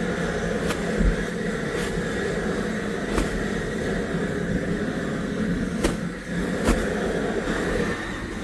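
Machinery running steadily with a constant hum, and sharp clicks or knocks every second or two.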